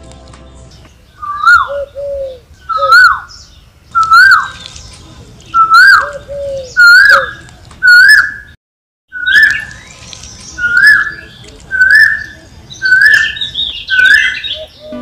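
A bird calling over and over: a short, loud swooping note about every second and a quarter, with a brief total dropout a little past the middle.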